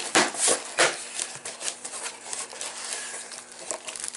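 Cardboard shipping box and packaging being opened and handled: three scraping rasps in the first second, then a run of small clicks and rustles.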